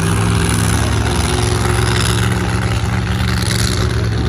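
Monster truck engines, supercharged big-block V8s, running with a loud, steady, deep drone.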